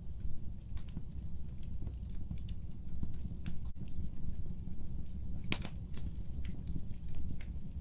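Fireplace fire crackling: irregular sharp pops and snaps over a low steady rumble, with one louder snap about five and a half seconds in.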